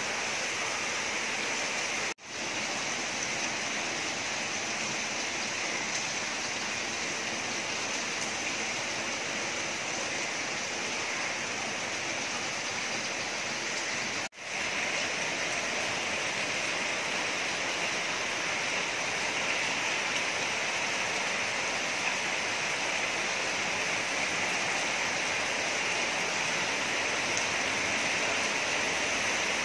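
Heavy rain falling steadily on garden foliage, a dense, even hiss. It cuts out briefly twice, about two and fourteen seconds in.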